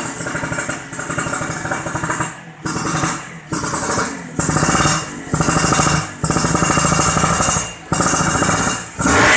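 Suzuki Satria's single-cylinder two-stroke engine revved hard through a JMF racing exhaust. It is held at high revs in a string of bursts, with short throttle drops between them about every second.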